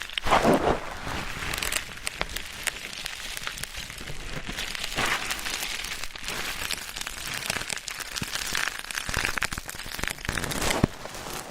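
Ear-cleaning ASMR: an ear pick scraping and rustling in an ear, making a crackly, scratchy sound with scattered small clicks. There are louder swishes near the start and about halfway through.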